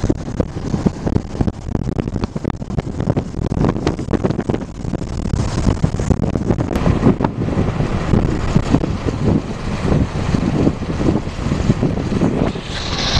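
Car driving on the road, its rumble overlaid with gusty wind buffeting the phone's microphone.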